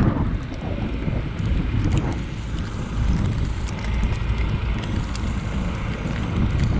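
Mahindra eMax 20S compact tractor running while clearing snow, a dense low rumble mixed with heavy wind buffeting on the microphone.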